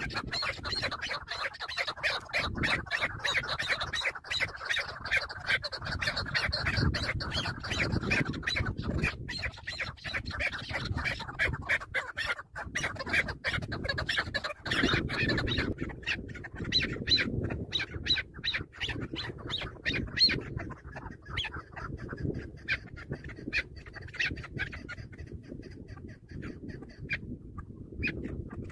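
Chukar partridges squawking in a fast run of harsh clucking notes. The calls thin out to fewer, separate notes after about halfway.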